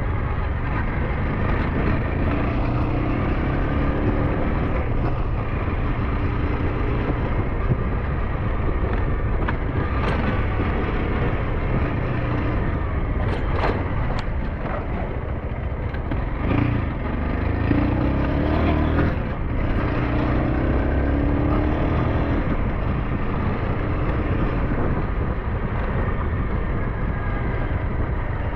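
SYM NH T 200 motorbike engine running on the move, with wind and road rumble heavy on the microphone. A few short knocks come around the middle, and the engine note rises and falls a few times in the later part.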